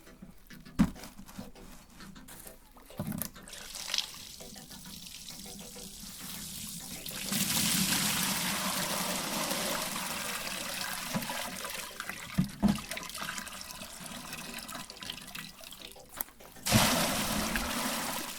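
Water splashing and rushing, with a few sharp knocks. A long rush of water swells up partway through, and another starts suddenly near the end, the loudest part.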